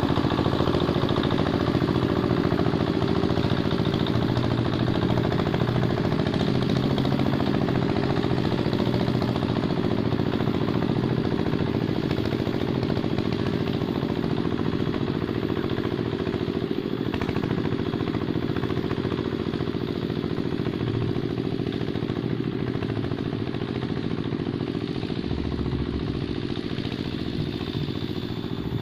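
Engine of a Quick Capung Metal two-wheel hand tractor running steadily while it plows a sticky paddy field, growing slightly fainter toward the end.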